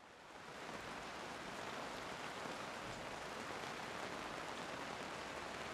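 Steady rain falling, fading in over the first second, with no wind or thunder: the rain that goes on after the storm has passed.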